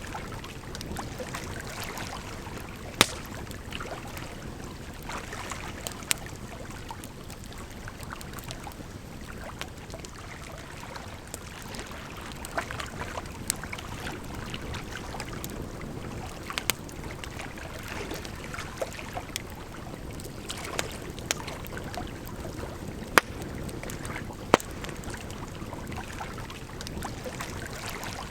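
Wood campfire crackling, with irregular sharp pops, a few much louder than the rest, over a steady rush of flowing water.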